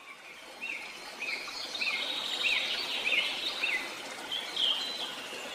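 Birds singing over a steady hiss of running water: a series of short, repeated chirps about every half second, with higher notes near the end, fading in at the start.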